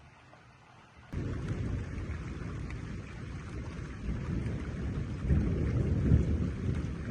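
Thunder: a sudden clap about a second in, then a low rumble that rolls on and swells again past the middle.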